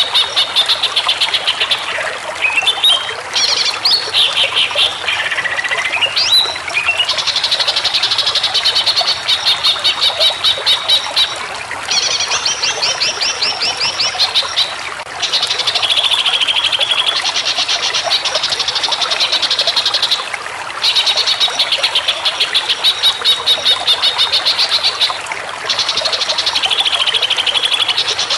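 Green leafbird (cucak ijo) singing: long runs of rapid, evenly repeated chattering notes, about four a second, broken by short pauses. Several sweeping whistled notes come in the first few seconds.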